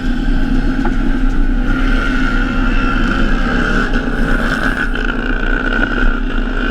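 Drag-racing motorcycle engine running loud and steady, its revs rising and falling now and then.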